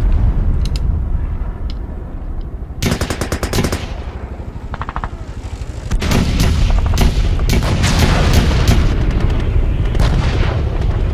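Battle sound effects: machine-gun bursts and single gunshots over a low rumble. There is a rapid burst about three seconds in, and heavier, denser firing from about six seconds on.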